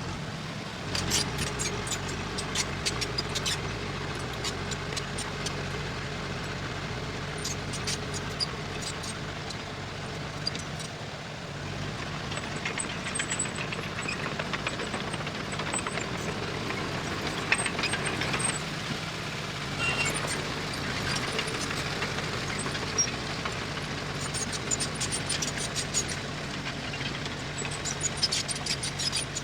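A heavy earthmoving machine's diesel engine runs steadily, with repeated sharp metallic clicks and clanks in several clusters.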